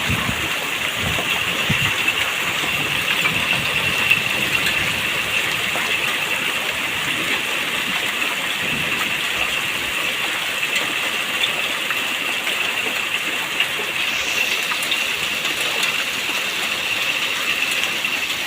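Heavy hailstorm: a steady rush of hail and rain pelting down, with scattered sharp ticks of hailstones striking.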